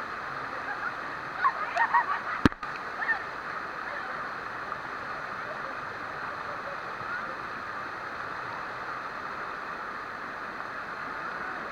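Steady rush of a waterfall. Brief voices call out about a second and a half in, and a sharp click comes about two and a half seconds in.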